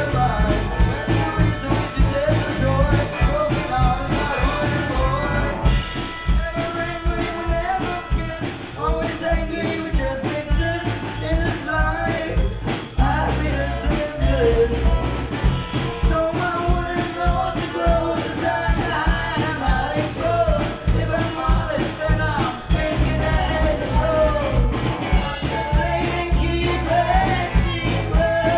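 Live gypsy rock band playing a swinging rock song with a steady drum beat, bass, guitar and accordion, with singing over it.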